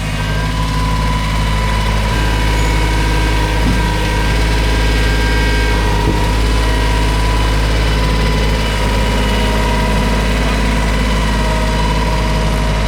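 An engine running steadily at idle, an even low hum with a stack of tones that holds unchanged throughout.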